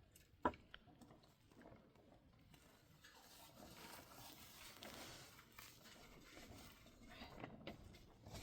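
Faint handling sounds: one sharp knock about half a second in, then a soft rustling hiss with a few light knocks near the end.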